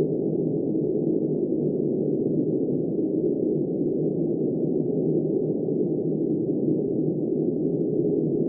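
Steady, muffled rush of snowstorm wind, dull and even throughout with nothing high-pitched in it.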